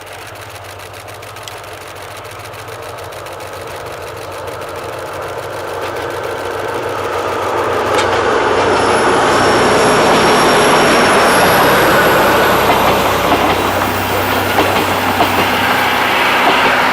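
A DE10 diesel-hydraulic locomotive hauling passenger coaches approaches and passes, its diesel engine running with a steady low hum under the wheel and rail noise. It grows louder over the first half and stays loud, with thin high-pitched squeals appearing from about the middle on.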